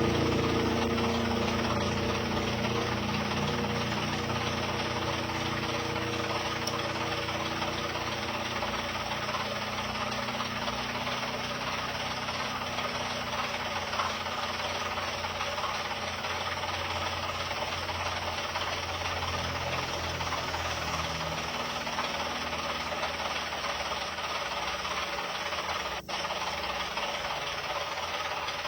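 Steady mechanical noise of machinery running, with a low drone that fades over the first several seconds.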